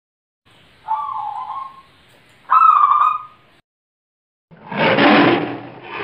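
Two short whistled bird calls, each under a second. After a pause, near the end, a loud, rough big-cat growl begins.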